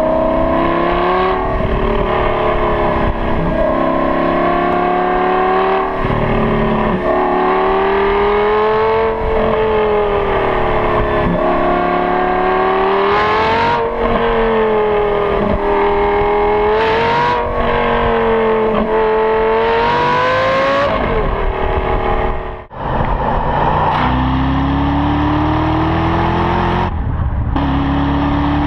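Classic and exotic car engines revving and accelerating, their pitch rising and falling again and again. About 22 seconds in it cuts abruptly to another engine accelerating, its pitch climbing, dropping at a gear change, then climbing again.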